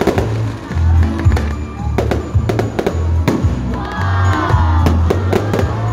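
Fireworks bursting in quick, irregular cracks and bangs over loud music with a heavy pulsing bass. A crowd shouts about four seconds in.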